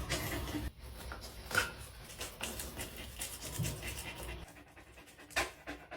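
A dog panting, with scattered rustles and knocks. A low steady hum stops about two-thirds of the way through.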